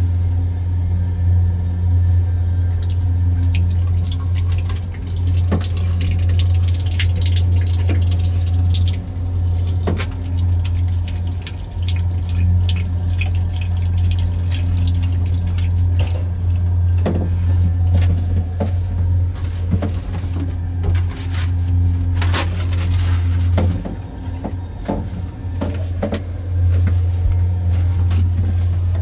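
Inside a moving night train's couchette car: a steady deep rumble from the running train, with many irregular rattles and clicks over it.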